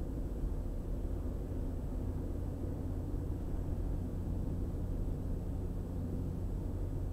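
Car driving steadily at highway speed: an even, low rumble of engine and tyre noise.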